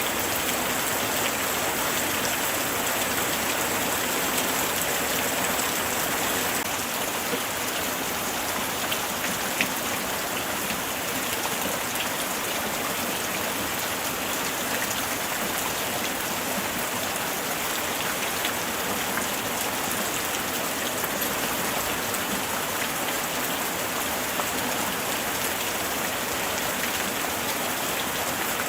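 Steady light rain falling, a dense even hiss with scattered drops ticking on a surface.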